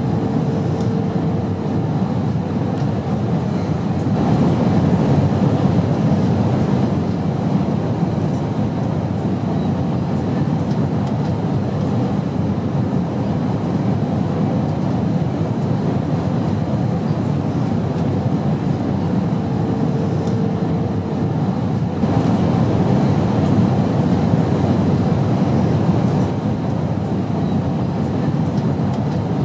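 Airplane noise in flight: a steady low drone that swells slightly twice, with a faint steady hum showing briefly at the start and again in the middle.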